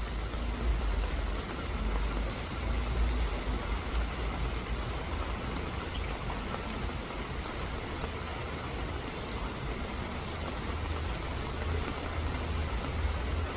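Steady rain falling, an even hiss of drops, with a low rumble underneath that is heavier in the first half.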